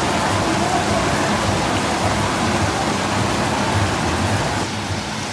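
Steady noise of heavy rain and rushing water, with uneven low rumbling underneath. It drops a little in level near the end.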